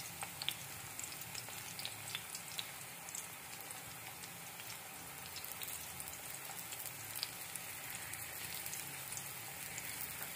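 Besan (gram-flour) batter sizzling in melted desi ghee in a frying pan: a steady hiss dotted with many small crackling pops.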